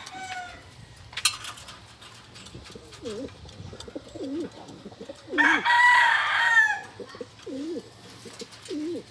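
Pigeons cooing repeatedly in low, wavering calls, while a rooster crows loudly once about halfway through. The tail of an earlier crow fades out at the start, and there is a sharp click a little over a second in.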